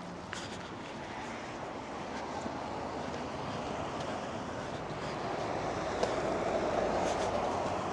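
Road traffic: the tyre and road noise of a passing car, swelling steadily and loudest about six to seven seconds in.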